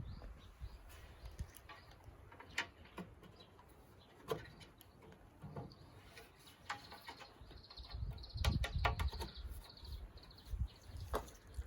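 Scattered light knocks and clicks, with a small bird chirping in a quick run of short, high notes about two-thirds of the way in.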